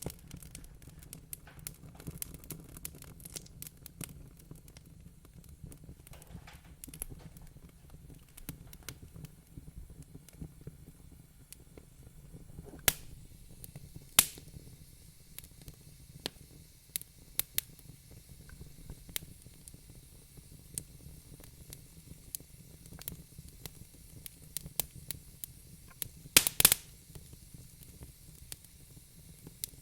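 Wood fire crackling in a fireplace: irregular snaps and pops over a steady low rumble and soft hiss, with a few louder pops about halfway and a quick cluster of sharp pops near the end.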